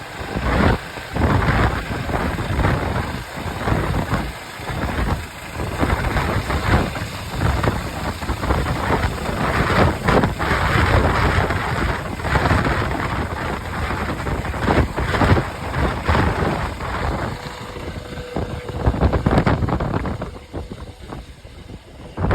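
Wind buffeting the microphone on a moving vehicle, an uneven rumble, with engine and road noise underneath.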